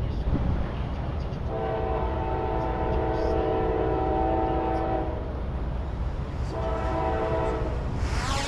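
Norfolk Southern freight locomotive's air horn sounding several notes at once: one long blast, then a short one, over the low rumble of the moving train.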